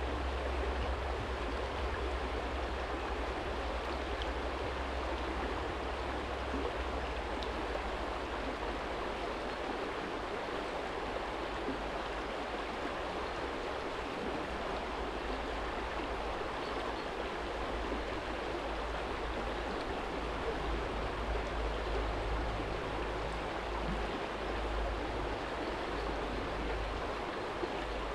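Shallow stream running over a stony bed: a steady rushing and splashing of water, with a low rumble underneath that swells and fades.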